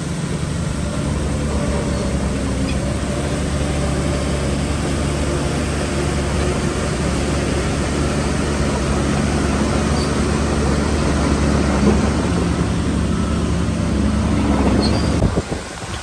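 Heavy diesel engine of earthmoving machinery running steadily with a low drone. It cuts off suddenly about a second before the end.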